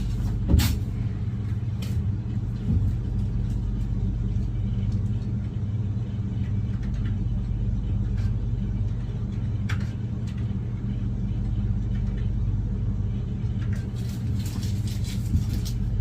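Steady low mechanical hum, with a sharp click about half a second in and a few fainter knocks.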